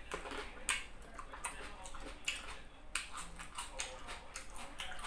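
Close-up wet mouth sounds of a person eating: chewing with lip smacks and finger sucking, as irregular short clicks a few times a second.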